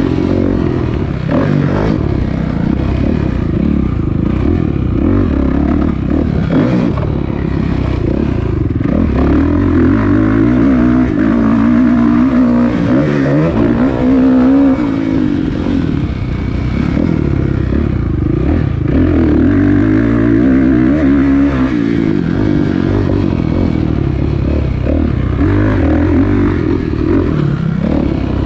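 Kawasaki KX450F dirt bike's single-cylinder four-stroke engine revving hard while riding a motocross track, its pitch climbing and dropping again and again as the throttle is worked.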